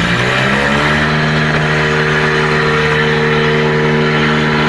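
Tractor diesel engine revving up over about a second and a half, then held at high, steady revs.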